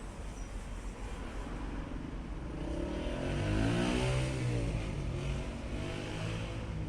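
Road traffic noise with a motor vehicle passing close by. Its engine note swells to a peak about three and a half seconds in, then falls away.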